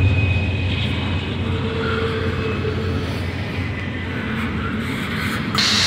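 Double-stack intermodal well cars of a freight train rolling past with a steady rumble and clatter of steel wheels on the rails. A sudden hiss starts near the end.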